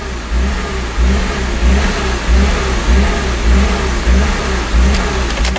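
BMW E46 325Ci's 2.5-litre M54 inline-six surging at hot idle, its revs rising and falling in a steady rhythm about every half second and loud throughout. The hunting idle follows refuelling on a hot start and comes with code P1447, which the owner suspects comes from a faulty DMTL evap leak-detection pump.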